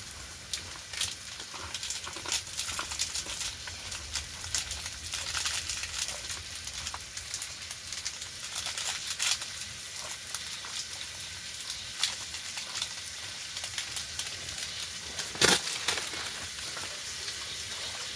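Chicken frying, a steady sizzle with scattered crackles and pops of spitting fat, and one sharp knock about fifteen seconds in.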